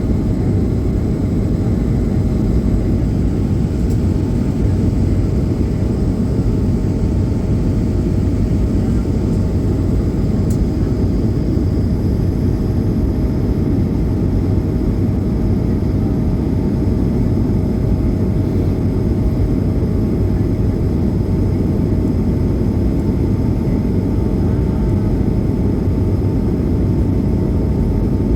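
Airbus A220 cabin noise in climb after takeoff: the steady low rumble of its Pratt & Whitney geared turbofan engines and rushing air, with a constant hum.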